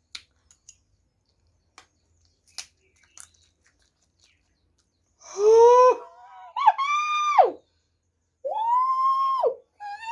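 A few faint clicks of chewing, then a woman's three high-pitched wailing cries, each held for about a second, her reaction to the burn of a mouthful of raw garlic.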